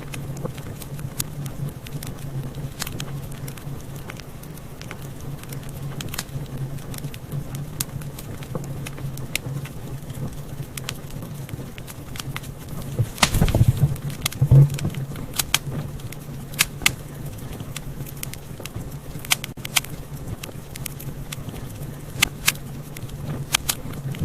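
Wood fire crackling in a fireplace: scattered sharp pops over a steady low rumble, with a burst of louder, denser pops about 13 to 15 seconds in.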